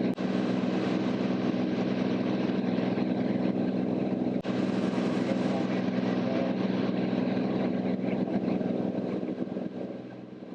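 Cirrus SR22T's turbocharged six-cylinder piston engine and propeller droning steadily in the cockpit in flight, at slightly reduced cruise power. It grows quieter near the end.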